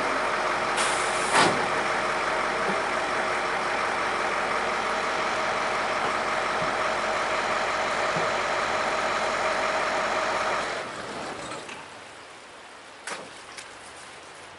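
1977 International fire engine running steadily with its water pump working; the sound falls away about eleven seconds in. Near the start, a short hiss ends in a sharp click.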